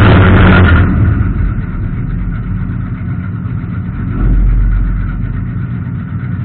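Circle-track race car engines idling while the cars sit stopped. The sound is loud for about the first second, then settles to a steadier, quieter idle, with a brief deeper swell in the rumble about four seconds in.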